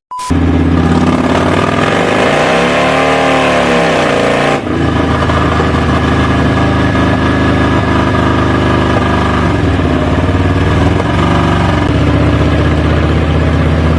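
Motorcycle engine running steadily at high revs on a dynamometer. A tone rises and falls between about two and four and a half seconds in, and the sound changes abruptly there.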